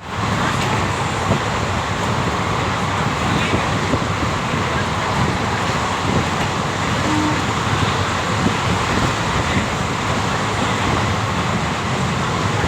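Steady rumble and rushing noise of a moving train running on without a break.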